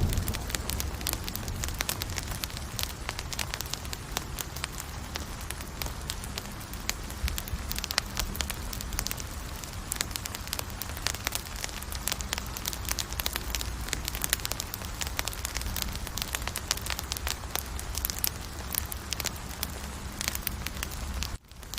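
Wood campfire burning, with a steady hiss and low rumble under many small, irregular crackles and pops. The sound drops out for a moment near the end.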